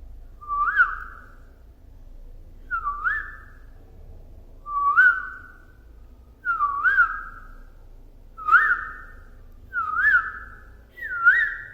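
Budgerigar giving a short whistled call over and over, seven times about every two seconds, each call a quick rise and fall in pitch.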